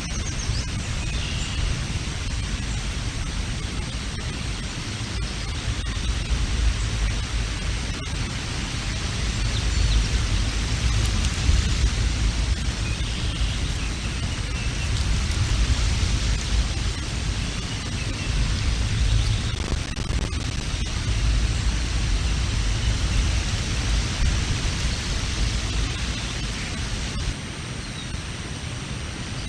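Strong wind buffeting the microphone: a low, gusting noise that swells and eases, strongest in the middle and easing a little near the end.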